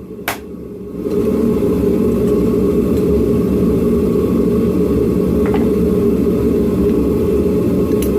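A single hammer blow on hot steel just after the start, then from about a second in a steady, loud rumbling noise, mostly low-pitched, of a blacksmith's forge running.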